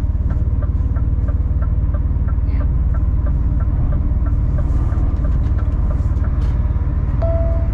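Cab noise of a 26-tonne rigid lorry on the move: a steady low engine and road rumble, with a light regular ticking about three times a second and a short beep near the end.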